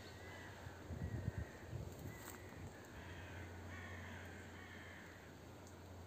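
A bird calling over and over, short pitched calls about twice a second, with a brief low rumble about a second in.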